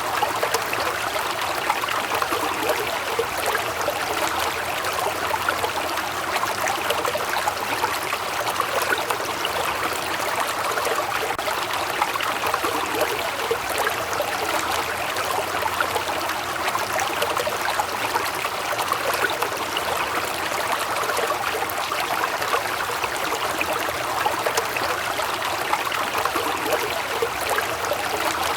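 Waterfall: a steady rush of falling water with splashing and burbling, even throughout.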